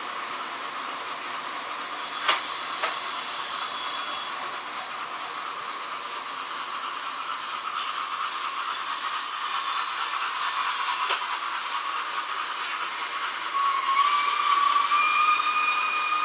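H0 model trains running on the layout, a steady hissing rumble with a few sharp clicks. Near the end a model steam locomotive's whistle sounds, held for about three seconds and rising slightly in pitch.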